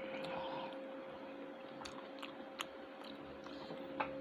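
Close-up chewing and mouth clicks of a person eating, with a few sharp clicks, over a faint steady hum.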